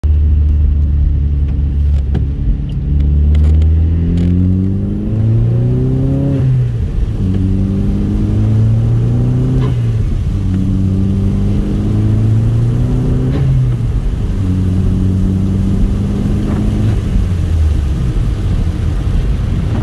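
Chevrolet Cobalt SS's turbocharged 2.0-litre four-cylinder engine accelerating through the gears of its manual gearbox: the engine note climbs, drops at each of three upshifts, then holds steadier and falls away near the end.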